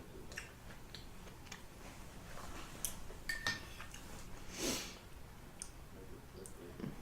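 Close-miked eating of chicken and rice soup: soft mouth and chewing clicks throughout, a spoon clinking against the bowl about halfway, and a short slurp a little after.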